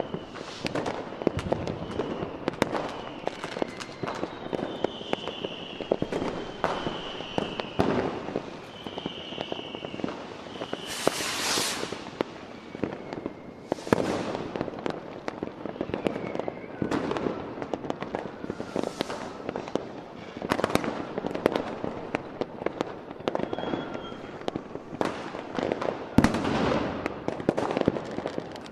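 Fireworks display: a continuous run of sharp shell bursts and crackling, dozens of bangs, with a longer hissing burst about eleven seconds in. A few short high whistling tones come between about four and ten seconds in.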